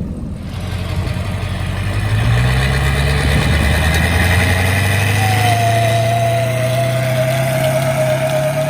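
Car engine running at low revs, getting louder about two seconds in and climbing in pitch near the end, with a high whine joining about halfway through.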